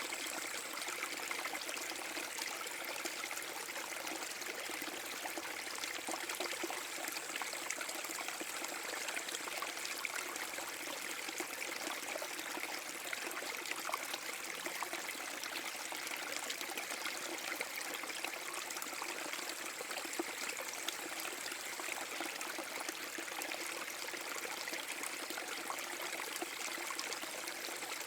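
Small forest brook spilling over a mini waterfall: a steady splashing, trickling rush of water.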